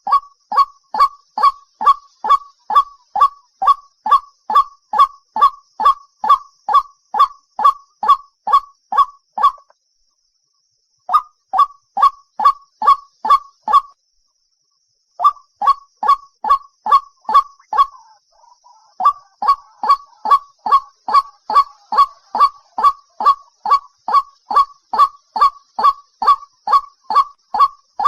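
White-breasted waterhen calls: a monotonous train of loud, short 'kwak' notes, about two to three a second, each dropping slightly in pitch. The train breaks off twice, for about a second each time, roughly ten and fourteen seconds in.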